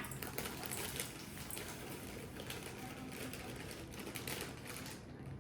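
Faint rustling and small clicks as a cake-mix bag is cut open with scissors.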